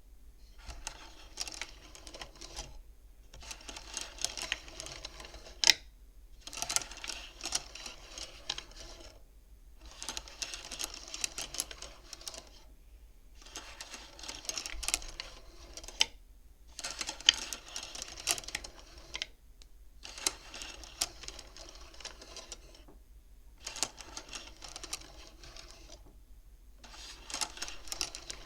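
Beads of a wooden bead abacus sliding along their rods and clacking together, in repeated runs of dense clicking, each a second or two long, with brief pauses between.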